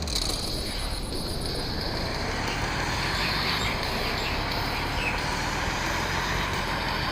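Truck engine running steadily, with continuous noise over it.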